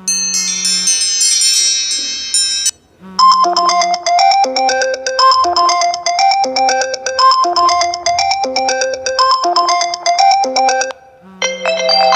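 iPhone ringtones played one after another. A bright, dense chiming tone stops about 2.7 s in. After a short gap comes a repeating melody of short, quickly decaying notes lasting about eight seconds, and the next ringtone begins near the end. Each ringtone opens with a short low steady tone.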